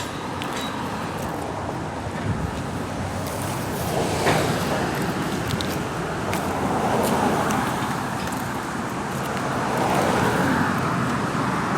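Road traffic passing, a steady rush of tyre and engine noise that swells and fades a few times as vehicles go by.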